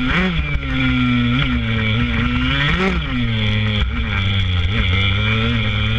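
Small two-stroke motocross bikes racing, among them a Kawasaki KX65, with engines revving up and dropping back several times as they accelerate and shift.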